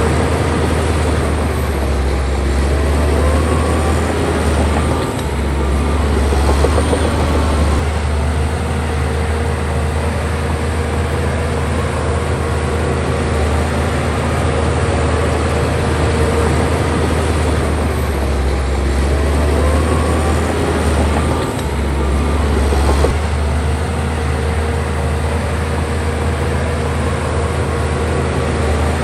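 Bulldozer's heavy diesel engine running steadily with a deep drone and a steady whine, dipping briefly twice, about 5 and 21 seconds in.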